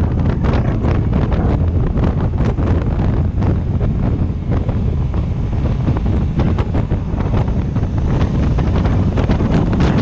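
Heavy wind buffeting the microphone of a motorcycle riding at speed, a steady rushing noise with constant gusty flutter, over a low drone from the bike and road.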